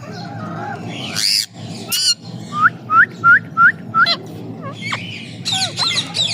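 Parrot calling: a harsh screech about a second in, then a quick run of about six short rising chirps, followed by more squawks near the end.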